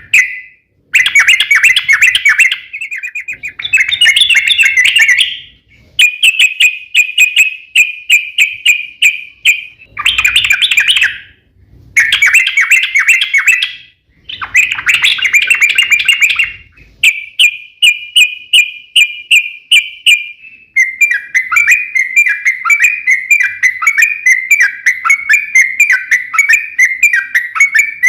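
Yellow-vented bulbul (trucukan) singing loud, rapid chattering phrases in bursts of one to three seconds, then a long unbroken run of quick repeated notes for the last third, the long rolling song (ropel panjang) used to lure other bulbuls into singing.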